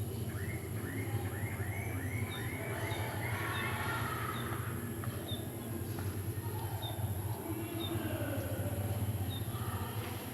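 Birds calling: a quick run of about nine repeated rising notes in the first few seconds, and short high chirps about every half second, over a steady low rumble.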